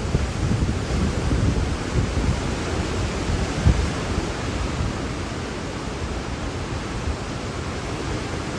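Hurricane wind blowing hard: a steady rushing noise with gusts that buffet the microphone.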